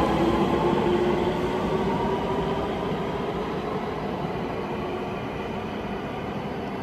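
IR Ishikawa Railway 521 series electric train running past and pulling away, its traction motors whining in a slowly rising tone over the running noise. The whole sound fades steadily as the train recedes.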